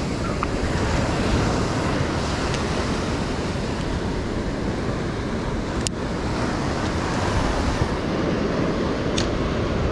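Ocean surf washing steadily on the beach, with wind buffeting the microphone. Two brief faint ticks come through, one about six seconds in and one about nine seconds in.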